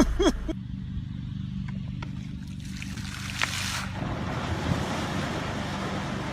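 Wind and water noise with a steady low motor hum underneath, the rushing growing louder about two-thirds of the way through.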